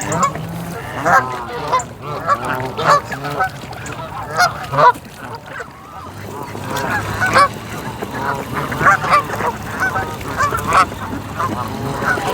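A flock of Canada geese honking, many short calls overlapping, with a brief lull about halfway through.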